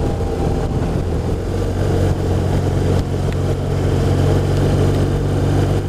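BMW R1200RT's boxer-twin engine running at steady low revs, a low hum that settles and strengthens about two seconds in, over an even hiss of road and wind noise.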